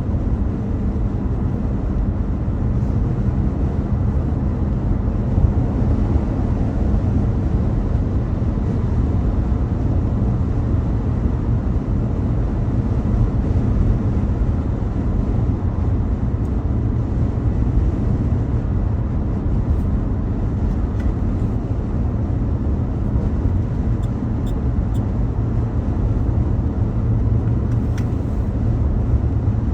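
Steady low rumble of a car driving at road speed: tyre and engine noise, with no change through the stretch.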